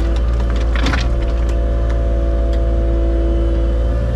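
Heavy diesel engine running at a steady idle, heard from close by. There is a brief clatter about a second in.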